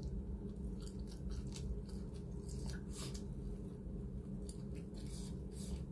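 A person chewing and biting food close to the microphone, with scattered short crunches and mouth clicks. A steady low hum runs underneath.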